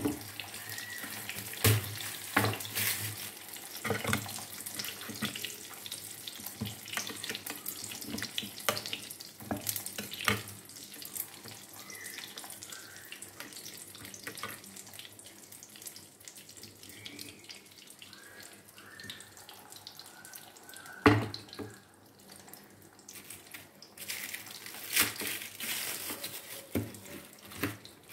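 Egg-coated vegetable kababs shallow-frying in hot oil in a frying pan: a steady sizzle with frequent pops and crackles. A single sharp knock comes about 21 seconds in, and the crackling grows denser and louder near the end.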